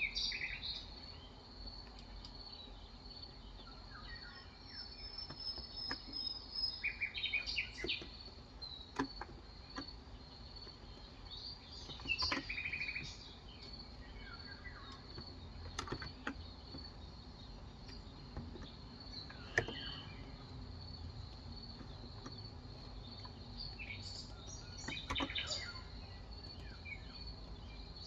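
Birds chirping in short, scattered bursts over a steady high-pitched background tone, with a few isolated sharp clicks.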